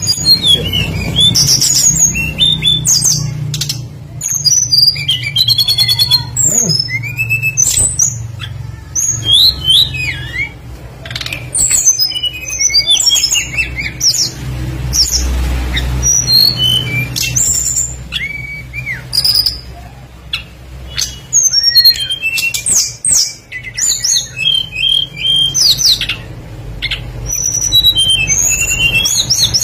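Tledekan songbird singing a busy, varied song of quick rising and falling whistles, sharp chips and fast trills, almost without pause, over a steady low hum.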